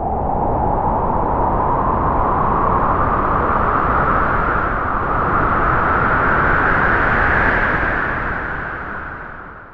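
Wind blowing in a steady rush whose pitch slowly rises, then fades away near the end.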